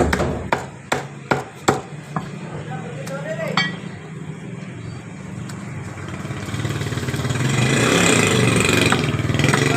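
A cleaver chopping chicken: about five sharp chops in the first two seconds, then a few scattered ones. From about six and a half seconds a vehicle engine running grows louder and stays loud.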